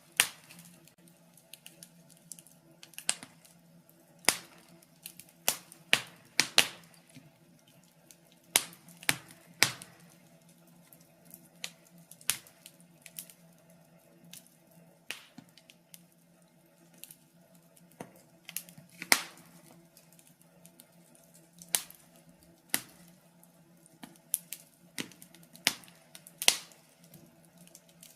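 Wood fire crackling: irregular sharp pops and snaps, some close together in small clusters, over a faint steady low hum.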